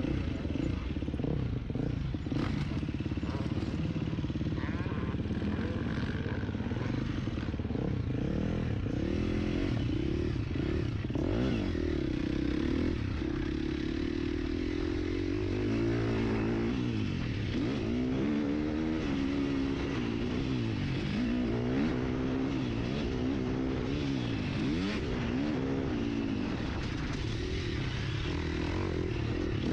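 Husqvarna FC 350 four-stroke motocross bike engine revving hard, its pitch rising and falling over and over as the throttle is opened and closed.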